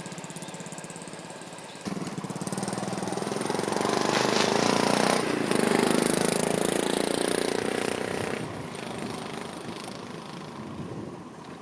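Motorcycle engine running; it gets louder about two seconds in, is loudest through the middle, then fades away.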